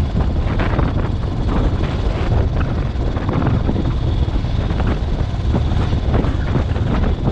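Motorcycle running at speed, its engine rumble mixed with wind buffeting the microphone.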